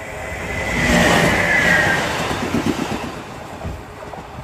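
JR East 719 series local electric train passing close by and pulling away. The sound swells to its loudest about a second in, with a high whine that sinks slightly in pitch, then fades with a few wheel clacks.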